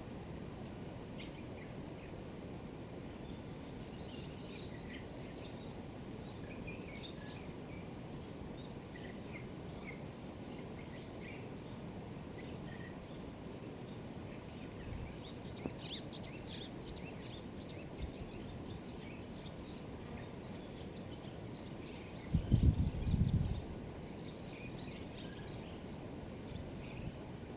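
Dusky thrush singing a very faint song of short, scattered high twittering notes, thickest in the middle, over a steady background hiss. Late on, a brief low rumble is the loudest sound.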